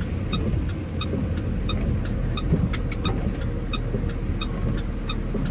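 Steady engine and road rumble inside the cab of a box truck driving on a wet highway, with a light, regular tick about every two-thirds of a second.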